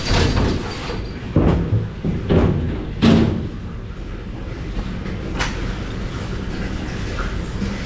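About five knocks and bangs over a steady low rumble, the loudest about three seconds in. They sound like doors or hard objects being handled at a dish station.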